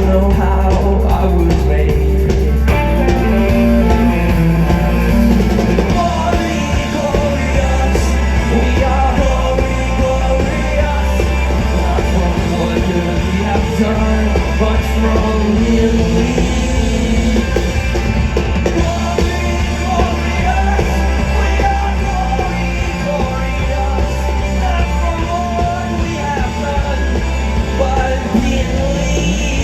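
A rock band playing live at full volume: guitars, bass and drum kit with a singer's vocals.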